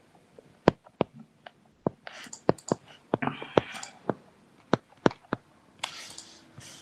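Irregular clicking of a computer mouse and keyboard, about a dozen sharp clicks, with a few soft rustles in between.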